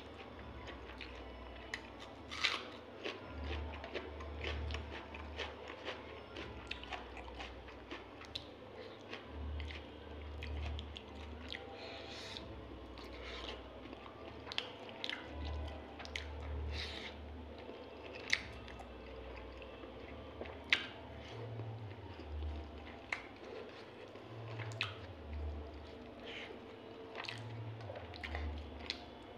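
Close-up mouth sounds of a man chewing rice and chicken gizzard-and-liver curry eaten by hand. The chewing comes with many irregular wet smacks and lip clicks.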